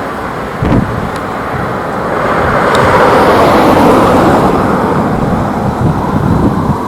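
JetBlue Airbus A320 passing on its arrival, the jet engine noise swelling to a peak about halfway through and then fading, with wind buffeting the microphone.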